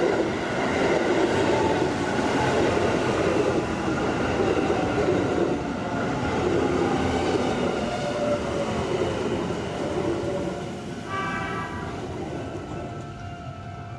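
Hanshin Railway electric train running along the platform, loud for about ten seconds, with a whine falling in pitch as it goes. A brief high tone sounds about eleven seconds in, then the train noise fades.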